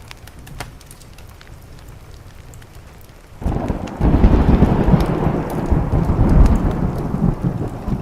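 Thunderstorm with rain against a window and faint crackles from a wood fire. About three and a half seconds in, a loud clap of thunder breaks and rolls on deep and heavy for the rest of the time.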